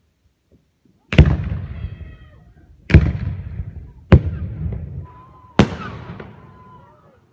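Nitrate fireworks cake firing aerial shells: four loud bangs spaced one to two seconds apart, each followed by a rolling echo.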